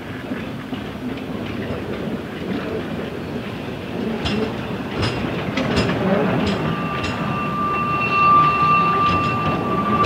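Train running on the track and growing steadily louder, with sharp clicks of wheels passing over rail joints. About two-thirds of the way through, a steady high tone sets in and holds.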